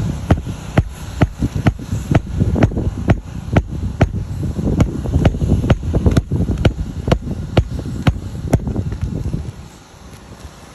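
A machine running with a low rumble and a sharp, regular click about twice a second. The clicking stops, and the rumble drops away about a second before the end.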